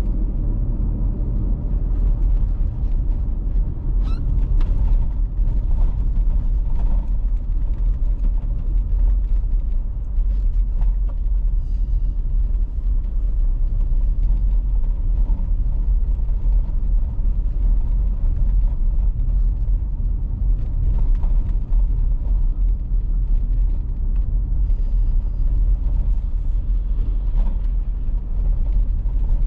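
Car being driven: a steady low rumble of engine and tyres on the road.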